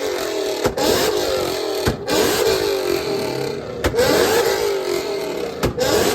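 Car engine being revved again and again, with a sharp crack on each blip and the pitch falling back after it.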